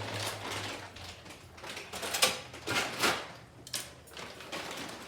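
Kitchen handling noises: a few short scrapes and knocks, the clearest about two, three and four seconds in, over a low hum that fades out in the first second.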